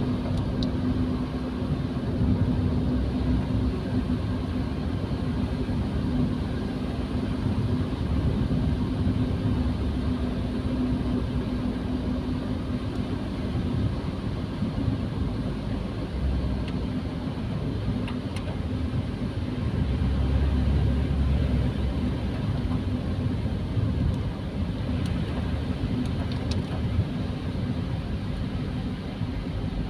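Car driving on a wet road, heard from inside the cabin: a steady low rumble of engine and tyres with a hiss of road noise, and a steady hum that fades out about halfway through.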